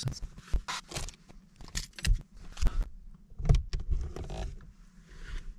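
Irregular clunks, clicks and rustling of someone moving about and climbing out of a pickup truck's camper shell.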